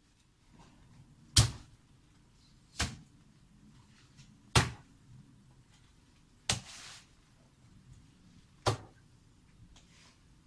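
Five sharp, heavy strikes at uneven intervals of about one and a half to two seconds, each dying away quickly: blows of a hand tool on the job.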